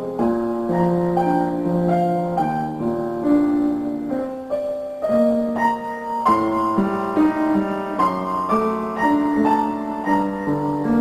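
Piano music: a melody of sustained notes played over chords, at an even pace.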